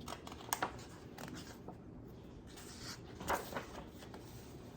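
Paper rustling and a few light clicks as the pages of a picture book are turned and handled.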